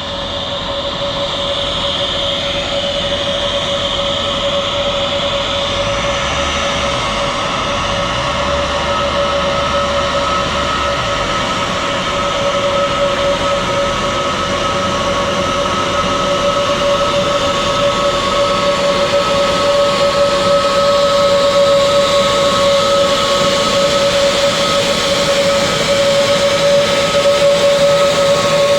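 Jet airliner engines running with a steady high whine over a hiss, slowly growing louder.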